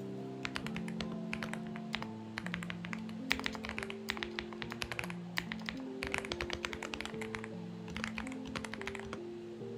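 Xinmeng X98 mechanical keyboard typed on in quick bursts of key clicks, with short pauses between runs, over soft background music of held notes.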